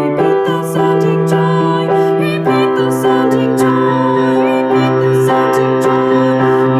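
Music: sustained keyboard chords held for a few seconds each, changing about two and a half seconds in.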